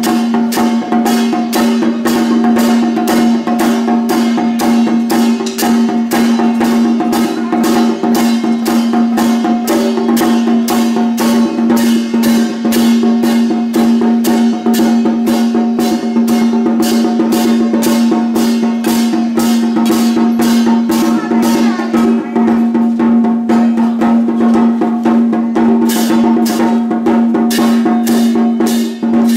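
A Madou-style temple-festival drum troupe (麻豆鼓) drumming in a steady, fast, even beat, with a steady ringing tone underneath.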